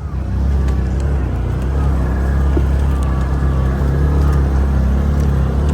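Can-Am 6x6 ATV engine running steadily under load while climbing a hill off-trail.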